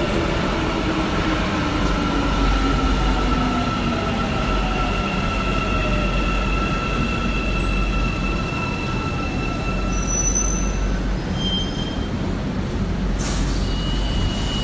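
Metro train slowing in a station: a whine falls in pitch over the first few seconds while high steady squealing tones carry on over a constant low rumble, fading out about eleven seconds in.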